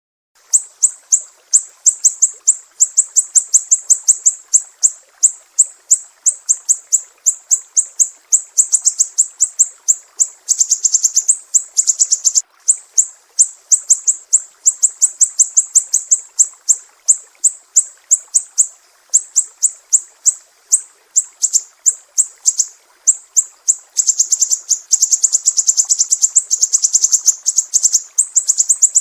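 Sumatran siri-siri songbird giving rapid, sharp, high chirps, about four a second, in a continuous string. The chirps come in denser runs about a third of the way in and again near the end.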